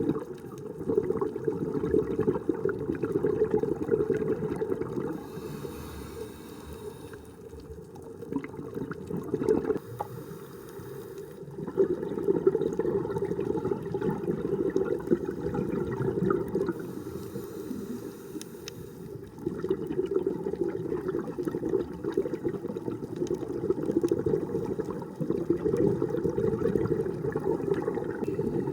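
Scuba diver breathing through a regulator underwater. Long bubbling rumbles of exhaled air alternate with shorter, quieter inhales that carry a faint hiss from the regulator, about three full breaths in all.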